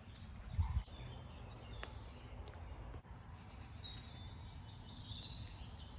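Birds chirping in short high calls over steady outdoor background noise, with a brief low thump about half a second in.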